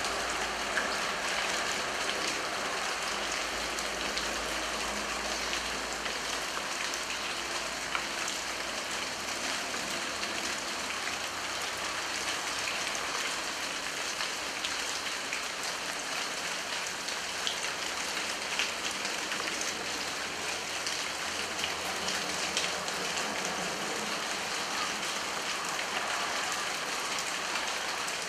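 Steady rain falling: a continuous hiss broken by many scattered, separate drop ticks.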